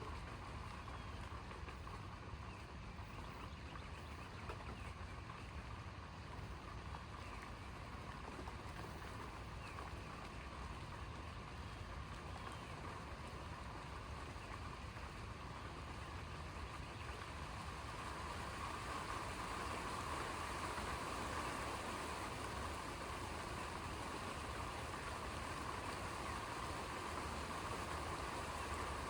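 Steady rain during a thunderstorm, an even hiss with no thunder crack, growing a little louder about two-thirds of the way through.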